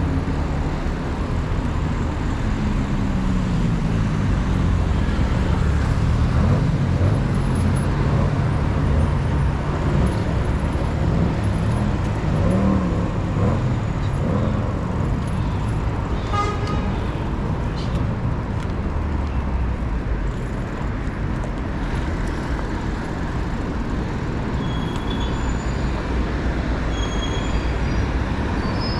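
City road traffic: car and bus engines running and passing, with pitch rising and falling as vehicles speed up and slow down. A short toot comes about halfway through.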